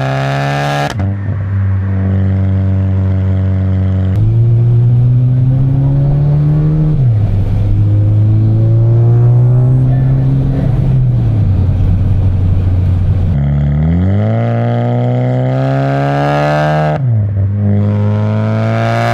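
Exhaust of a big-turbo MK6 VW GLI's turbocharged 2.0-litre four-cylinder, recorded at the tailpipe while driving. The engine note climbs in pitch under acceleration and drops sharply at each gear change, several times over, with a surge in loudness a few seconds in.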